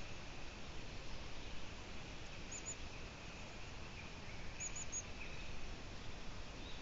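A small songbird gives short, high chirps, two about two and a half seconds in and three more near five seconds, over a steady outdoor background hiss.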